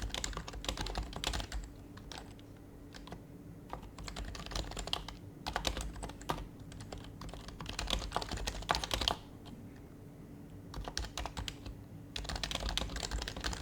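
Typing on an HHKB Professional HYBRID Type-S keyboard, its silenced Topre switches giving soft, quick keystrokes in bursts. The typing pauses twice for a few seconds, about two seconds in and about nine seconds in.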